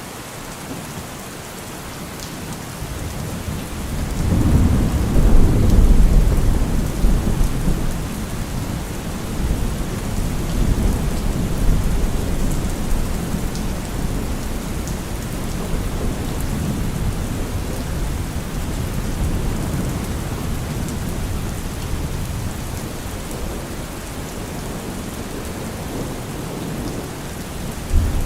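Heavy rain falling steadily on a car roof, with thunder: a long, deep rolling rumble swells about four seconds in, peaks and fades slowly, and another rumble begins near the end.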